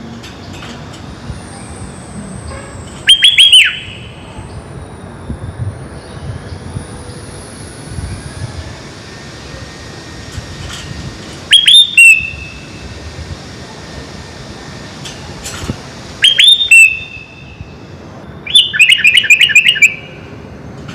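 Sooty-headed bulbul (kutilang) giving short, loud bursts of sharp chirping notes four times, with the last a longer run of rapid notes, over a steady low background noise.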